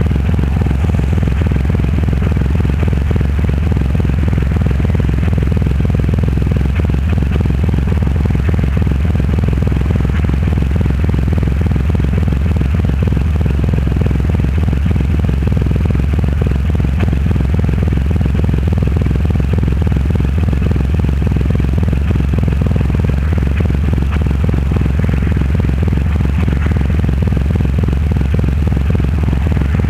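Triumph Rocket 3 Roadster's 2.3-litre three-cylinder engine running through a custom exhaust at a steady cruise, a deep, even drone that holds at one engine speed throughout.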